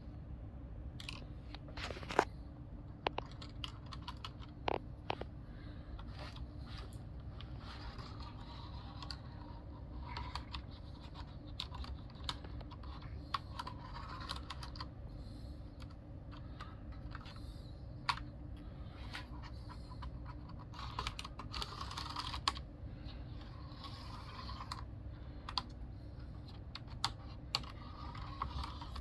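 A Logitech G710+ mechanical keyboard being handled: irregular sharp clicks and light plastic clatter and scratching. A steady low hum runs underneath.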